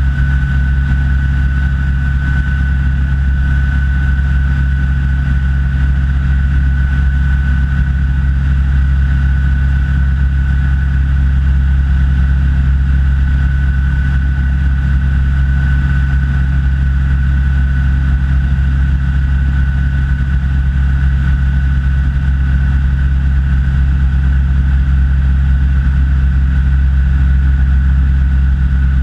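Rans S6 light aircraft's engine and propeller droning steadily in cruise, with a thin steady whine above the drone.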